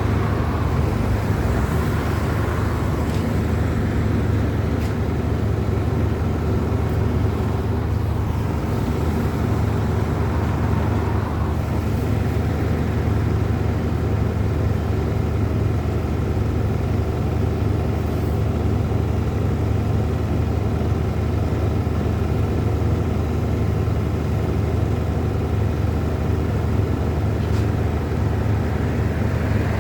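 An engine running steadily at an even pitch, a constant low drone with a few faint knocks over it.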